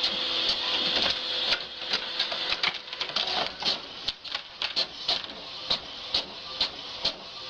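Printer running as it prints: a whirring pass for about the first second and a half, then a string of sharp clicks, about three a second.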